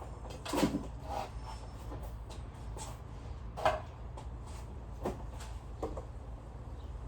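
A handful of scattered knocks and clatters of things being handled, the loudest about half a second in and just before the four-second mark, over a steady low hum.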